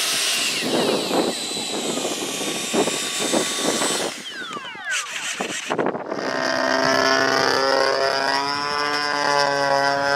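Radio-control model airplane engines: a noisy stretch, then a falling whine about four seconds in, then a steady engine tone from about six seconds on.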